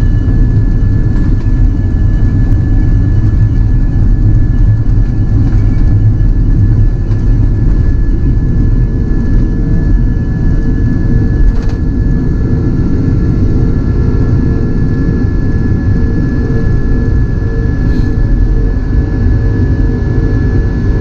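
Airbus A330-300's jet engines and a heavy, steady rumble heard from inside the passenger cabin, with a few faint steady tones over it.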